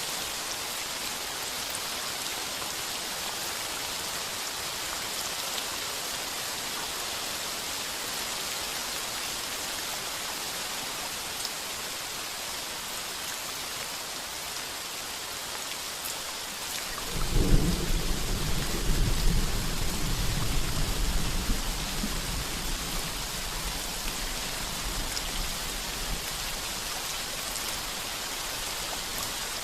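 Heavy rain falling steadily on a tin roof. About halfway through, a loud rumble of thunder breaks in, holds for several seconds and slowly dies away.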